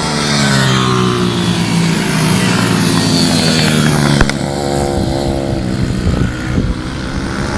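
Pit bike engine running under throttle; its note drops over the first few seconds. There is a sharp click about four seconds in, after which the revs rise and fall.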